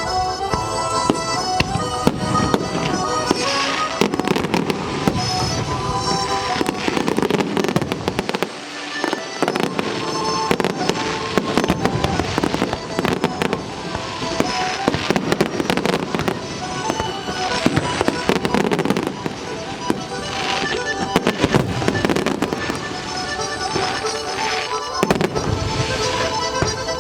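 Aerial fireworks bursting in a dense, continuous run of bangs and crackles over show music playing from loudspeakers.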